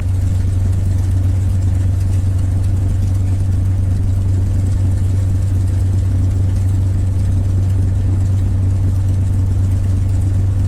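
North American P-51 Mustang's Rolls-Royce Merlin V-12 engine idling just after start-up, a steady, even low drone.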